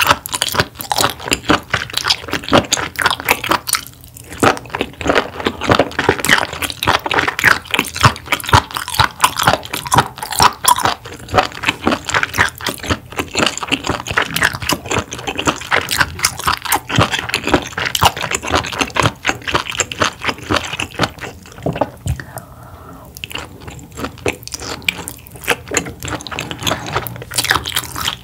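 Close-miked chewing and crunching of sea bass, with dense, irregular crunchy bites. There is a short pause about four seconds in and a quieter spell a little past the twenty-second mark.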